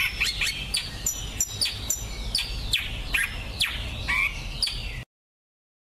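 Finch song: a fast, continuous run of high chirps and quick downward-sweeping whistled notes, several a second, that cuts off abruptly about five seconds in.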